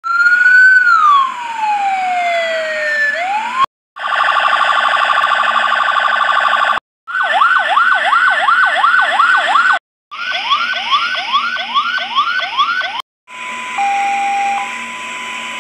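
Electronic emergency-vehicle siren stepping through its tones with short breaks between them. First comes a long falling wail. Then a steady buzzing horn tone, then two spells of fast yelp sweeps at about three a second, and finally a two-note hi-lo.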